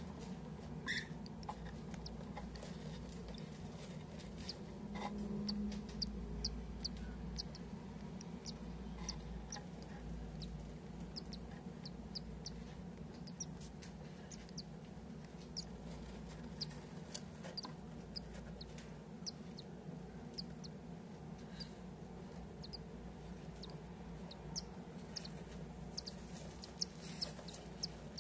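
Six-day-old cockatiel chick cheeping: short, high peeps at irregular intervals, over a steady low hum.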